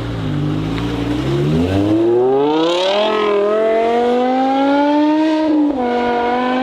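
BMW M5 engine accelerating hard, its revs climbing steadily. There is a quick drop in pitch at an upshift about five and a half seconds in, then the revs climb again.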